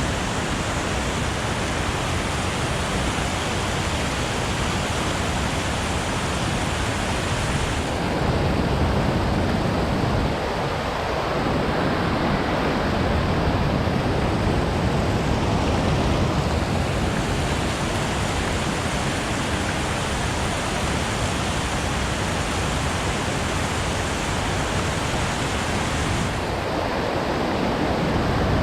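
Rushing water of a small river, a steady hiss that never lets up.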